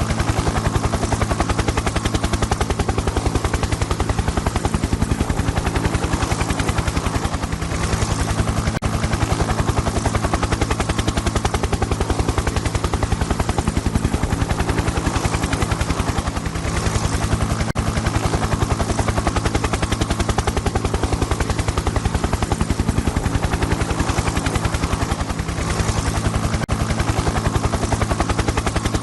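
Helicopter rotor blades chopping in a rapid, even beat over a steady engine drone, cutting in abruptly.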